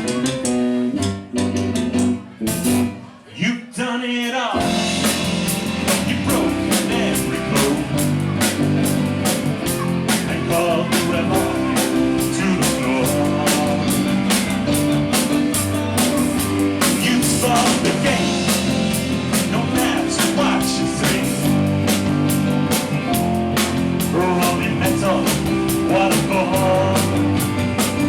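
Live rock-blues band with electric guitar, bass and drum kit playing at a sound check. A few brief stops in the first few seconds, then the full band plays on steadily with a regular drum beat.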